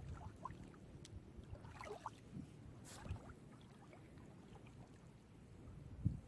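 Small, gentle sea waves lapping at the shore: a low, steady rumble of water and wind with small splashes, and a sharp click about three seconds in.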